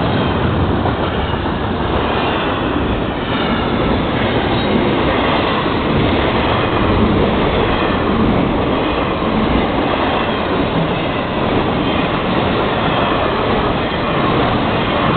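Freight cars of a long Florida East Coast Railway train rolling past, a steady loud rumble of steel wheels on rail.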